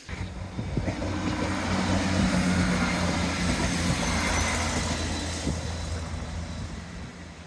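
A vehicle's engine passing by: a low steady hum with wide noise that grows louder over the first couple of seconds, holds, then fades away near the end.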